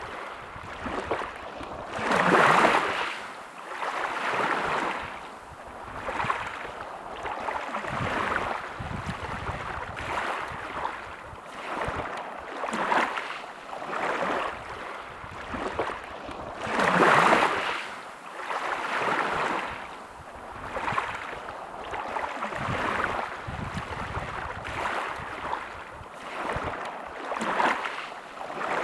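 Sea waves washing onto a beach: a rushing hiss that swells and fades every couple of seconds, with two larger waves about two seconds in and again about seventeen seconds in.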